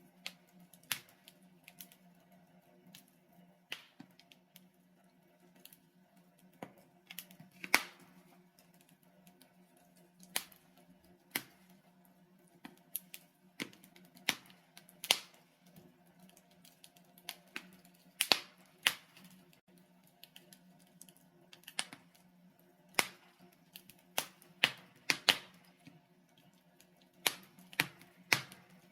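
Wood logs burning in a fireplace, crackling with irregular sharp pops, some in quick pairs, over a faint steady low hum.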